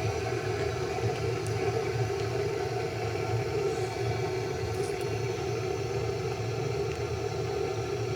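A steady low mechanical hum, even throughout, with a few faint ticks.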